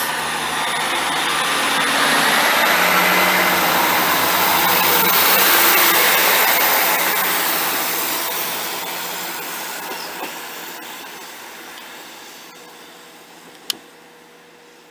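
Class 158 diesel multiple unit pulling away, its diesel engine and a rising whine building to a peak about six seconds in, then fading steadily as the train draws away. A single sharp click near the end.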